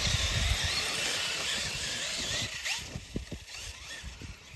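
Losi LMT RC monster truck's electric motor whining, rising and falling in pitch as the throttle is worked, over the hiss of tyres on dirt. It fades after about three seconds, leaving scattered low thumps.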